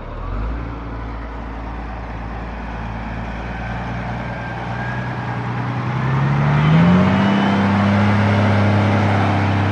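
Log truck's diesel engine pulling under load, its revs climbing about six to seven seconds in and then holding higher and louder.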